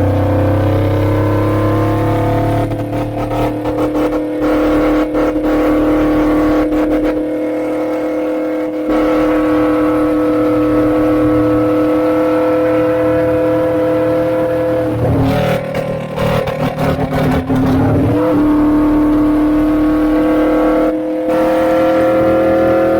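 Suzuki GS400 parallel-twin engine running through an aftermarket Pretty Racing exhaust while the bike is ridden, its note climbing slowly at steady throttle. About fifteen seconds in, the note breaks up for a few seconds and comes back a little lower, then climbs again.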